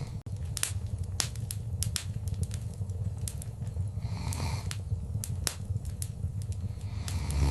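Wood fire crackling in a fireplace: frequent sharp pops and snaps over a steady low rumble of the flames, with a soft rushing swell about four seconds in and again at the end.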